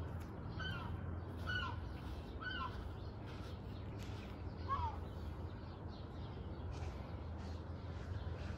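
A bird calling, a short call repeated about once a second through the first half, then stopping, over a low steady hum.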